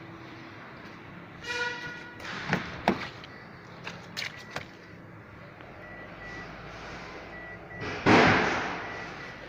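Car sounds: a short electronic beep about one and a half seconds in, then a few sharp clicks, a faint repeating high beep, and a loud noisy burst about eight seconds in that fades away over a second or so.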